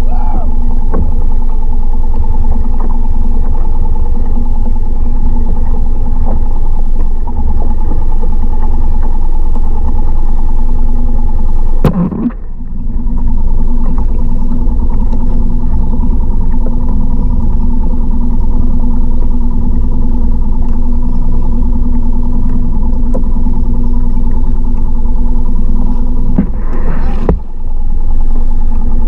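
Mercury 3.5 hp four-stroke outboard motor running steadily at a constant speed, loud and close, with two brief dips in level, about twelve seconds in and near the end.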